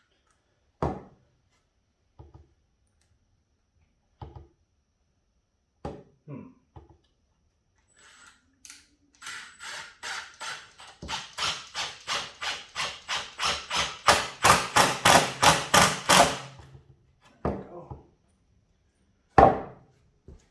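Hand hammer striking in a steady run of about four blows a second for some seven seconds, getting louder toward the end. A few scattered knocks and clunks come before it, and one loud knock follows.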